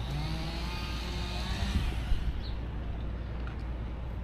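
A motor revving with its pitch rising and wavering, stopping about two seconds in, over a steady low engine rumble.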